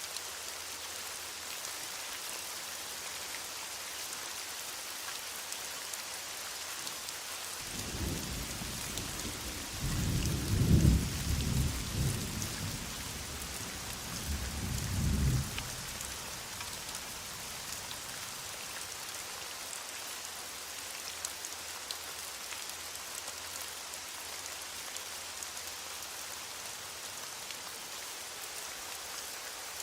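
Heavy rain falling steadily, with a rolling rumble of thunder from about 8 seconds in until about 16 seconds in, loudest near its start and swelling again before it fades.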